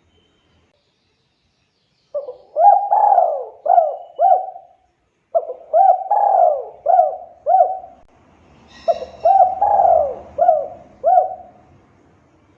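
Spotted dove (tekukur) cooing: three song phrases, each a run of about five hooked coo notes, starting about two, five and nine seconds in.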